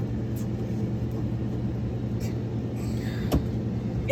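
Motorhome air conditioner running with a steady low hum and rumble. There is one sharp click about three seconds in.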